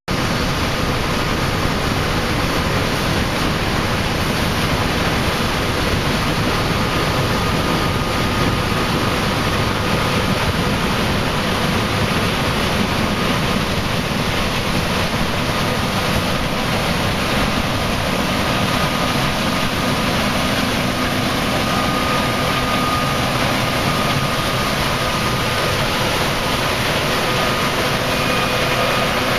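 Combine harvester running steadily while harvesting corn: a loud, even rush of machinery noise with a faint steady whine.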